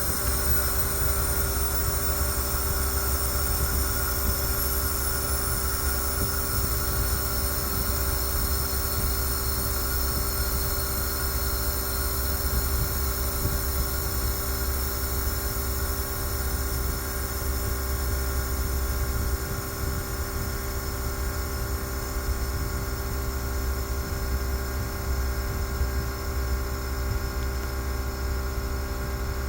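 Machinery running steadily: a deep low rumble with several constant hum tones, which eases slightly about two-thirds of the way through.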